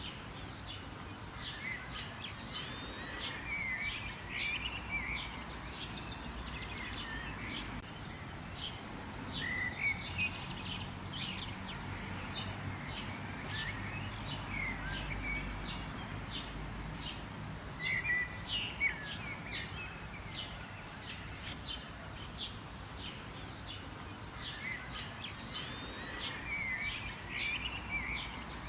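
Several birds chirping and calling: many short high chirps with scattered twittering phrases, over a steady low background noise.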